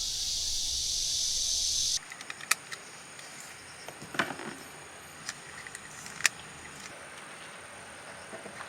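A loud steady high-pitched hiss that cuts off abruptly about two seconds in. After it comes quieter ambience with a thin, steady high whine and a few sharp clicks, spaced a second or two apart.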